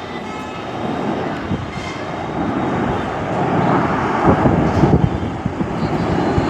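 Aircraft flying past overhead, a broad rushing engine noise that grows louder about halfway through, with wind buffeting the microphone.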